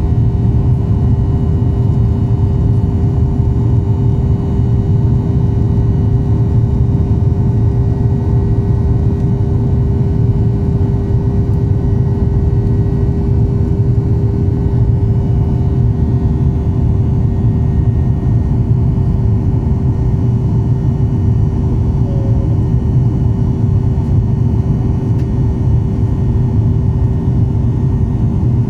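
Boeing 737 jet engines running at a steady power: a deep, even rumble with a steady hum over it.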